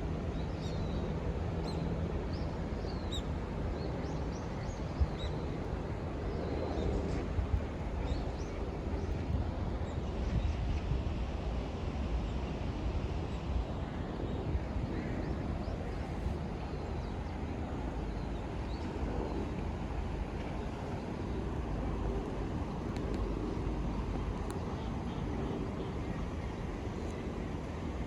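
Outdoor ambience of a city park: a steady low rumble of distant traffic, with small birds chirping, mostly in the first several seconds.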